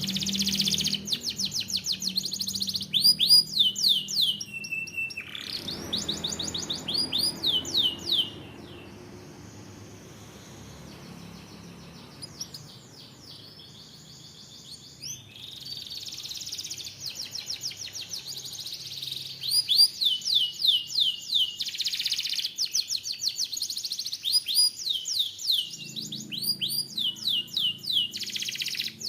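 Domestic canary singing fast trills, rapid runs of repeated down-slurred whistled notes, with a quieter stretch of softer song partway through before the full trilling resumes.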